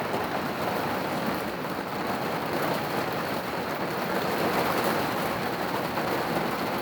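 Heavy rain pouring down in a thunderstorm, a steady dense hiss of rain hitting the ground and surfaces.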